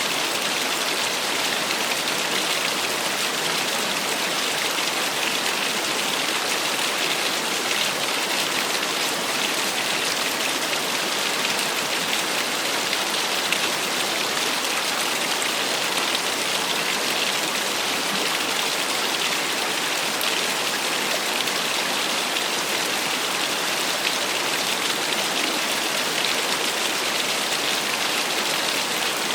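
Small waterfall splashing steadily: an even rush of falling water with a strong hiss, unchanging in level.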